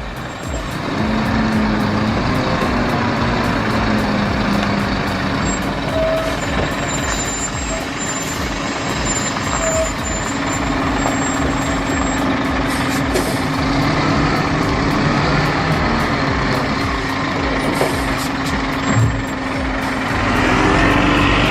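Heavy truck's diesel engine running hard under load, a steady drone whose pitch shifts now and then and rises near the end.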